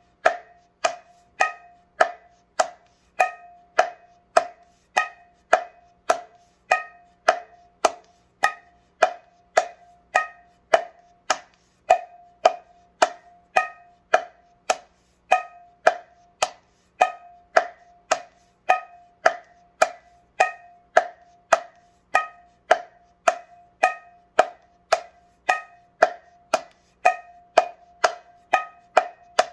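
Mridanga (Bengali clay khol) played with the fingers in a steady, even stream of sharp, ringing strokes, a little over two a second, all at one pitch: the 'ta ti ni' finger-stroke exercise played over and over.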